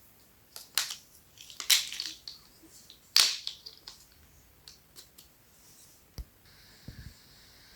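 Small plastic building blocks clicking and snapping together as they are handled and pressed on, in sharp separate clicks, loudest in the first three seconds and fainter after.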